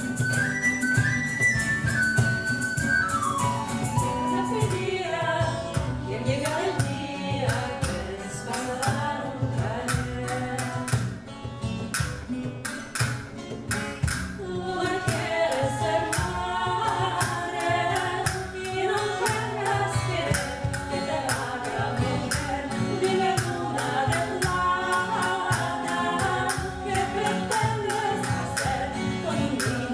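Live acoustic music: a flute-like melody for the first few seconds, then singing over instrumental accompaniment with a steady percussion beat.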